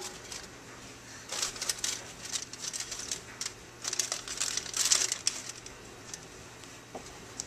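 Packaging crinkling in several short bursts, with light clicks of handling, as a Peep marshmallow candy is readied for the microwave.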